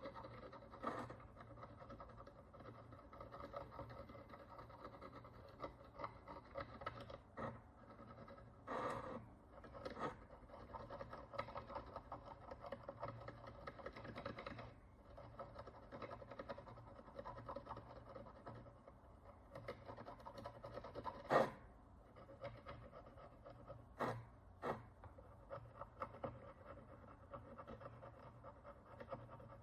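A hand tool scratching and picking at the crust on an ancient Roman bronze coin during cleaning: a steady fine scratching with scattered sharp clicks, the loudest about 21 seconds in.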